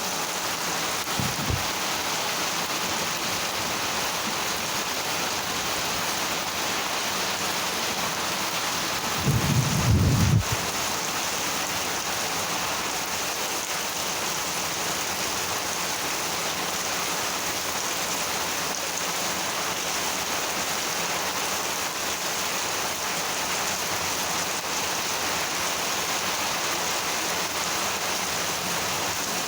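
Steady heavy monsoon rain. A short, low rumble of thunder comes about nine seconds in, lasting just over a second.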